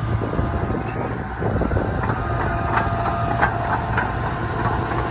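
Komatsu D31P crawler bulldozer's diesel engine running steadily under work, with its steel tracks clanking and squeaking several times in the second half.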